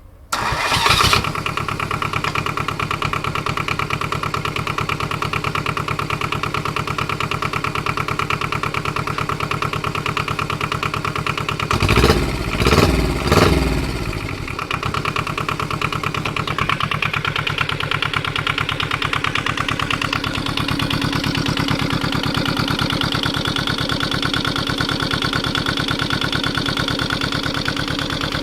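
Small two-cylinder water-cooled Kubota diesel engine, about 400 cc, starting up about half a second in and then running steadily. Around the middle it is revved up and back three times in quick succession, then it settles back to a steady run.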